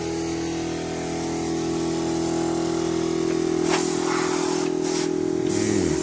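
An engine running steadily at a constant speed, with a brief hiss laid over it from about four seconds in.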